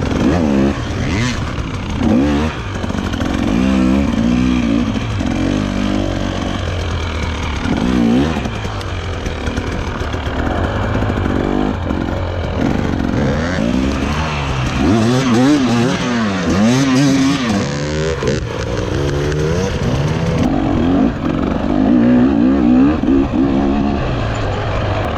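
Dirt bike engine revving up and down under hard off-road riding, its pitch rising and falling every second or two over a steady low drone.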